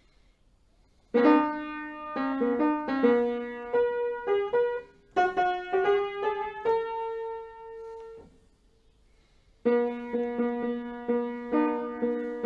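Piano played note by note by someone still learning it, a simple halting melody. It starts about a second in, stops for over a second near the end, then resumes.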